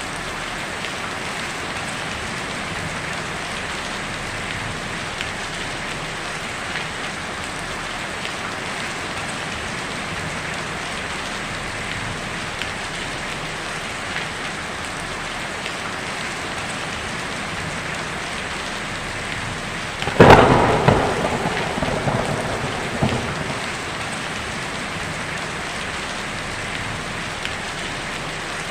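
Heavy rain falling steadily on a tin roof. About two-thirds of the way in, a sudden loud thunderclap breaks in and rumbles off over about three seconds.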